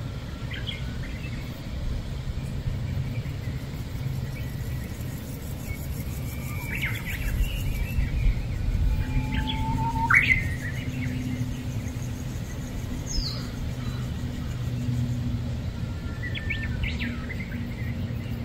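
Birds calling: short chirps and sliding whistled notes come every few seconds, loudest about ten seconds in, over a steady low hum.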